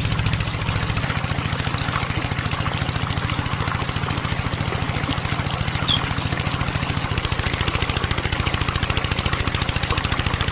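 Small engine running steadily at an even idle, with a rapid regular firing beat. A short sharp chirp cuts in about six seconds in.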